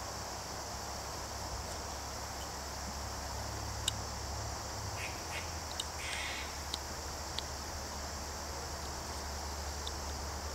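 Steady high-pitched chorus of crickets and other insects, with a few faint ticks and short scrapes of a carving knife cutting basswood scattered through the middle.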